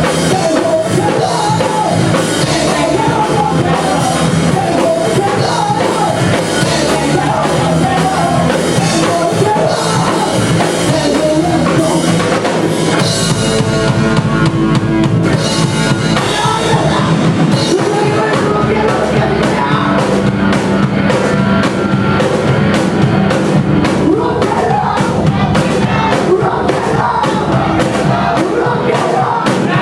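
Live rock band playing, with drum kit and singing. About halfway through the music briefly thins to held notes, then the drums drive a steady, fast beat.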